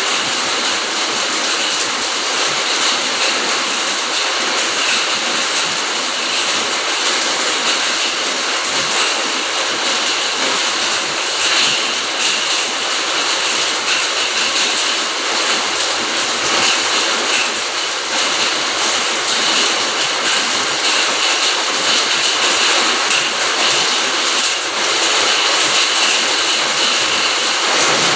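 Steady rain falling, an even continuous hiss without breaks.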